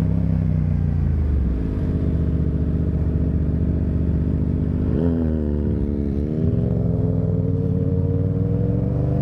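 Sport motorcycle engine running under way, heard from the rider's position. About five seconds in the pitch jumps briefly and falls away, then climbs steadily as the bike accelerates.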